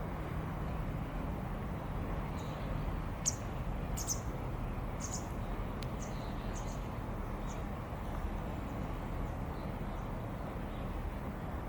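A string of short, high bird chirps, most of them between about two and eight seconds in, over a steady low background rumble.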